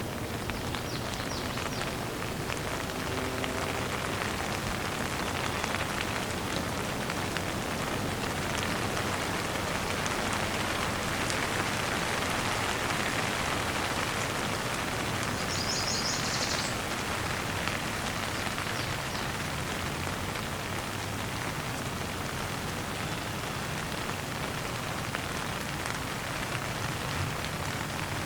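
Steady rain falling on a surface, with the ticks of individual drops throughout. A brief high trill comes about halfway through.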